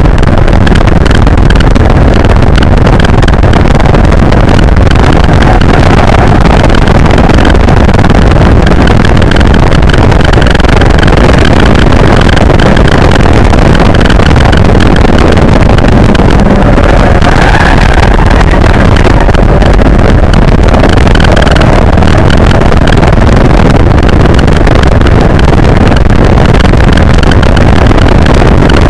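Nissan 240SX's 2.4-litre KA24DE four-cylinder engine running hard under track driving, heard from inside the cabin together with road and wind noise. Loud and constant, with the pitch shifting only gradually.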